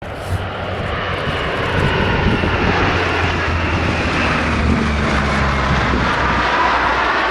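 Lockheed P-3C Orion's four Allison T56 turboprop engines running loud and steady, a deep hum under a wide roar.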